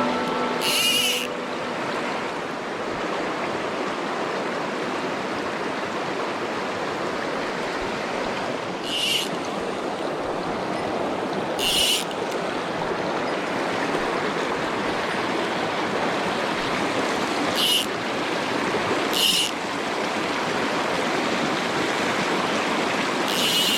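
Mountain stream water rushing steadily over rocks, with several brief high hissing sounds rising above it, about six times.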